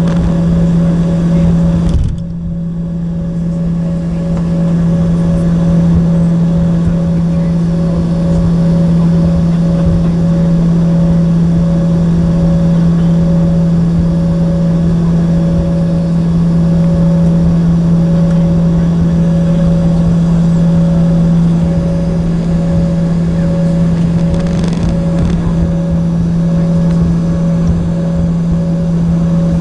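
Cabin noise of an Embraer ERJ-145 regional jet, its rear-mounted Rolls-Royce AE 3007 turbofans running with a steady low hum and a rush of noise. The sound is briefly muffled about two seconds in.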